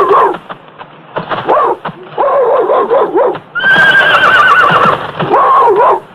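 Horses whinnying several times in a row, each call wavering and falling, with hoofbeats between the calls.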